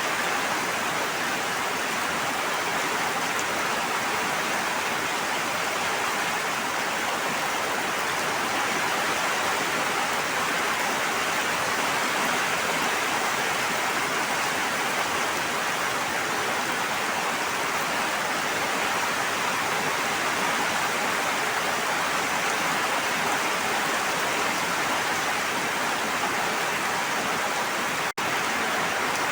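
Steady rushing water, an even hiss of rain or flowing stream water with no change in strength, broken by a momentary gap near the end.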